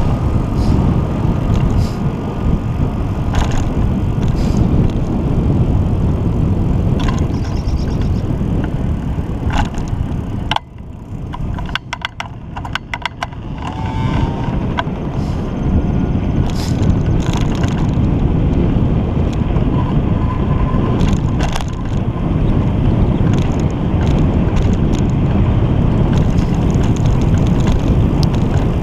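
Wind buffeting the microphone on a moving bicycle, mixed with road noise and occasional sharp clicks. The wind drops away for a few seconds about eleven seconds in, and a quick run of clicks is heard there.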